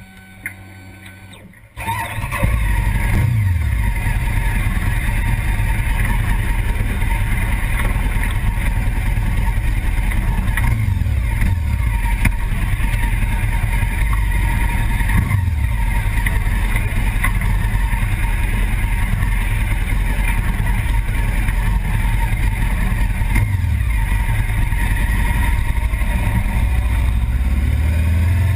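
A car engine starts about two seconds in and then runs loudly at idle, its pitch dropping back a few times. Near the end the pitch rises as the car pulls away.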